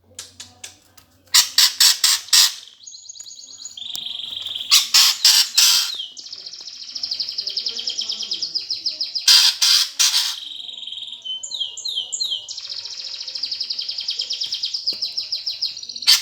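House sparrows (burung gereja) squabbling: loud clusters of harsh, rapid chirps come several times, with fast, high, buzzy trilling between them.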